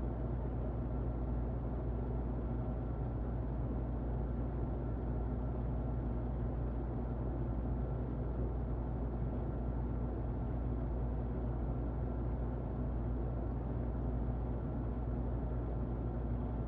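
Muffled electric fan running steadily: an even, deep whooshing noise with a faint hum, used as white noise.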